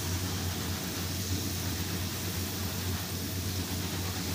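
Potato fries sizzling steadily in hot oil in a wok, nearly done and browning, with a low steady hum underneath.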